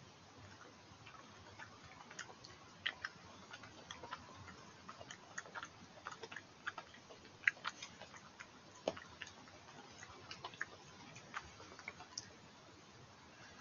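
European badger chewing and crunching food, giving irregular sharp clicks and ticks, over the steady rush of a stream.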